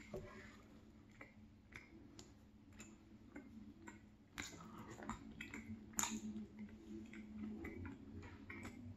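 A person chewing a mouthful of flaky-crusted salmon pie, with faint clicks of a metal fork working into the pie to take the bite. A sharper click comes about six seconds in.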